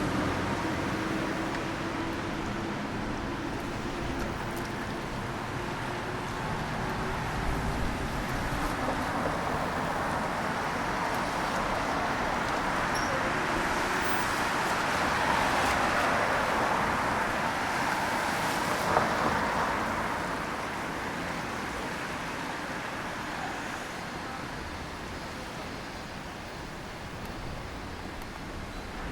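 Street traffic on wet roads: the hiss of tyres on wet tarmac, swelling as a vehicle passes roughly midway and then fading away.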